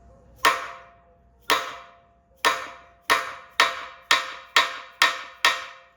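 Hammer blows on steel driving a freezer-chilled bushing into the Bobcat T190's Bobtach pivot bore, with a ringing metallic clang on each strike. Nine strikes, about one a second at first, then quickening to about two a second.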